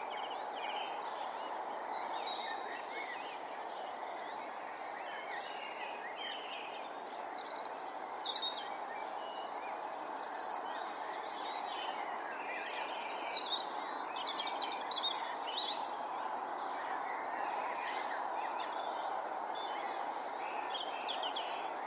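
Many small birds chirping and trilling on and off over a steady background hiss.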